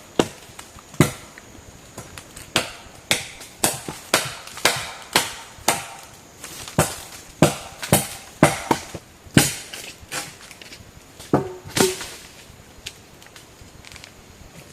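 Repeated chopping blows, about two a second and of uneven force, stopping about twelve seconds in.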